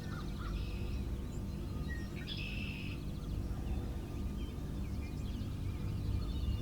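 Small songbirds chirping in the timber, with one brighter buzzy trill about two and a half seconds in, over a steady low rumble.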